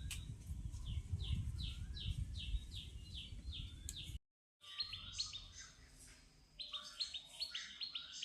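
Rapid high-pitched chirping calls, about three a second, over a low rumble; after a brief break in the sound about halfway through, a faster run of chirps without the rumble.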